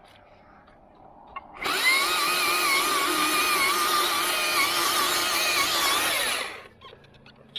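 Chainsaw throttling up about a second and a half in and running at full speed for about five seconds, its pitch wavering as it cuts an undercut into an oak limb, then dropping off near the end.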